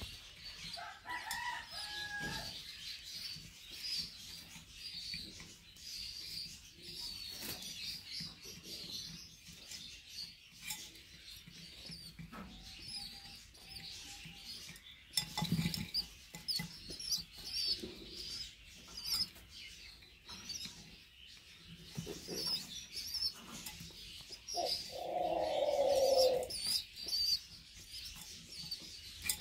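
Birds calling in and around a pigeon and dove loft: high chirping keeps up throughout. There is a short call about a second in, a few knocks or wing flaps, and a louder drawn-out call of about a second and a half near the end.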